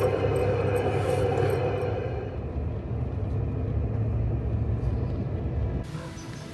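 Steady low rumble of a vehicle driving on a rough mountain road, heard from inside, slowly easing off. About six seconds in it cuts off abruptly and quiet background music begins.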